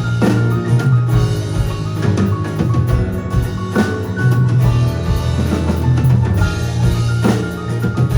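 A live band playing, with a drum kit keeping the beat over sustained low notes and other instruments.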